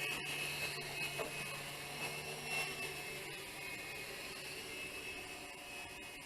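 Explorer FQ777-610 mini RC helicopter whirring steadily in flight: its small electric motors and counter-rotating rotor blades give a steady high whine.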